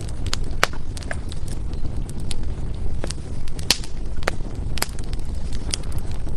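Burning firewood crackling and popping: irregular sharp snaps, a few louder than the rest, over a steady low rumble of the fire.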